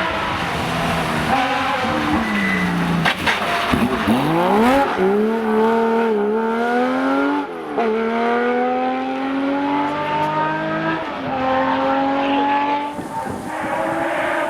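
Porsche rally car's flat-six engine accelerating hard through the gears, its pitch climbing steadily and falling sharply at upshifts about halfway through and again about eleven seconds in.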